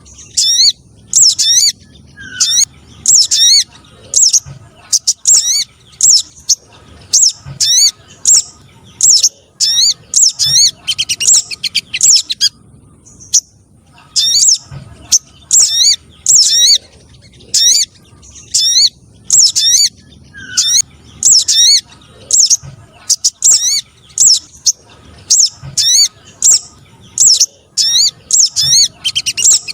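Lure recording of small-bird calls played for trapping spiderhunters (sogok ontong trotol): sharp, high, down-slurred chirps repeated about twice a second, with a short pause a little before halfway.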